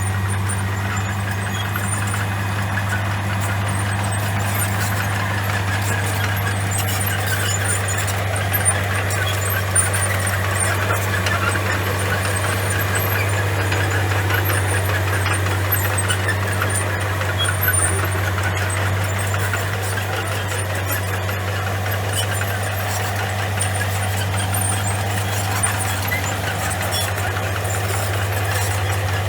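Bulldozer's diesel engine running at a steady, unchanging pitch, with a few light clanks.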